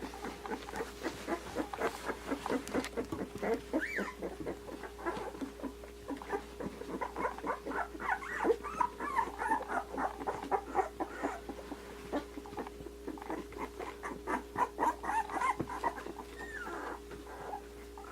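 Two-week-old Australian Shepherd puppies squeaking and whimpering in many short, high, wavering calls, with small clicks of movement over a steady low hum.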